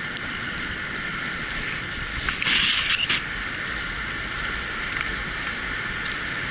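Wheeled dog-racing rig rolling along a track behind a running team, a steady rattling rumble of wheels and frame, with a short louder rattle about two and a half seconds in.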